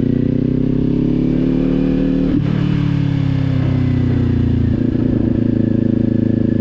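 Kawasaki sport bike's engine through a Leo Vince aftermarket exhaust, riding at low speed: the revs climb, there is a sharp change about two seconds in, then the engine note eases down and turns steady about five seconds in.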